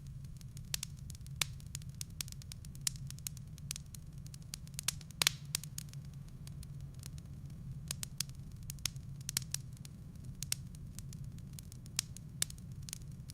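Wood fire in a fireplace crackling, with irregular sharp pops from the burning logs, the loudest about five seconds in, over a steady low hum.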